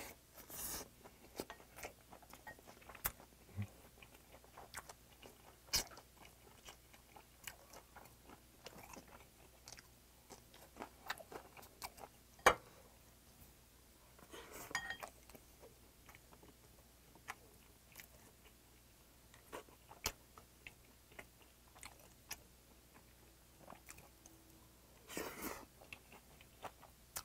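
Close-miked chewing of a mouthful of oyster rice wrapped in a perilla leaf, with many sharp wet mouth clicks and smacks. The loudest click comes about twelve seconds in, and a few longer breathy sounds come near the start, about fifteen seconds in and near the end.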